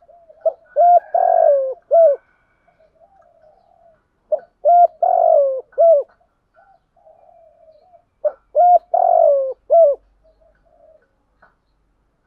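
Spotted dove cooing: three phrases about four seconds apart, each a quick run of short coos around one louder, drawn-out coo. Softer, quieter notes come in the gaps between phrases.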